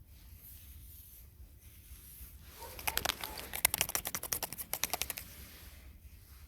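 A quick run of sharp crackling clicks, about ten a second, for roughly two and a half seconds in the middle.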